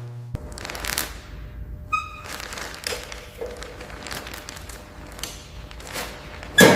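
Workshop sounds: scattered knocks and taps, a brief ringing tone about two seconds in, and a heavy thud near the end.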